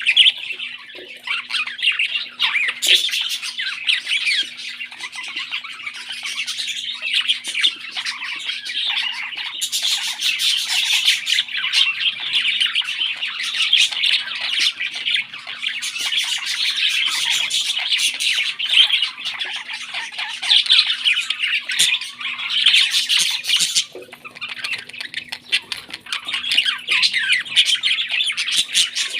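Parrots squawking in a rapid, continuous scratchy chatter, typical of parrot chicks begging while being fed. The squawking swells several times without any real pause.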